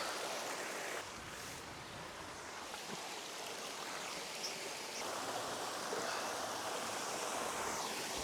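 Rushing water of a small waterfall and stream, a steady even rush.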